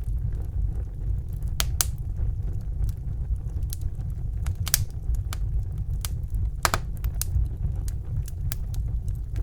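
Wood fire burning in a fireplace: a steady low rumble of the flames with irregular sharp crackles and pops from the burning logs, the loudest a few seconds in and again about two thirds of the way through.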